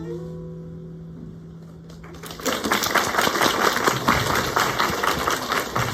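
Final acoustic guitar chord ringing out and fading, then audience applause breaks out about two and a half seconds in, a dense patter of clapping.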